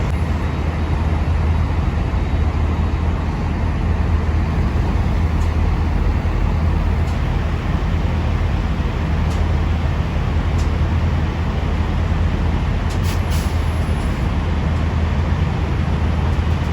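Cummins N14 inline-six diesel in a Freightliner FLD truck idling: a steady low hum under an even rushing noise, with a couple of faint ticks about thirteen seconds in.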